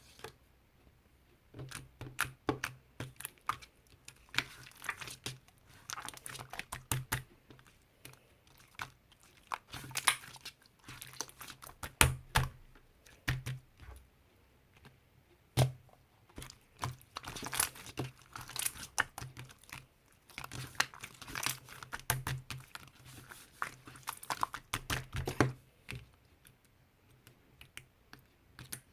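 Slime being squeezed, stretched and poked by hand, giving irregular runs of small clicks and pops with brief pauses between handfuls.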